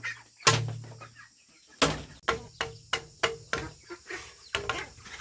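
Sharp blows of a tool on bamboo. The first strike rings with a short low hum, and from about two seconds in a quicker run of knocks follows, around three a second. Chickens cluck in the background.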